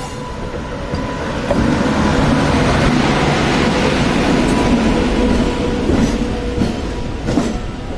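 Train running on the rails: a steady rumble of wheels and carriages that grows louder about a second and a half in and holds, with a faint steady hum underneath.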